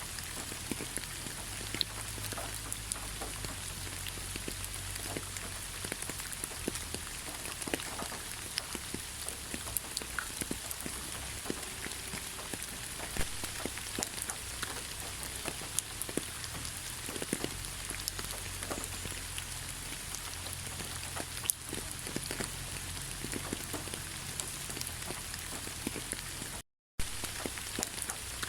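Steady rain falling in a pine forest, an even hiss with many close drops ticking individually, over a low rumble. The sound cuts out completely for a moment near the end.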